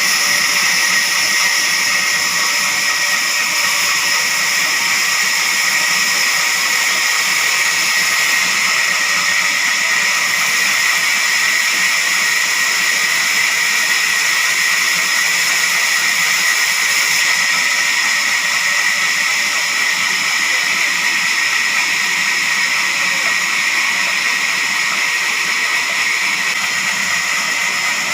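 Sawmill saw running steadily with a high-pitched whine and rushing noise that does not change.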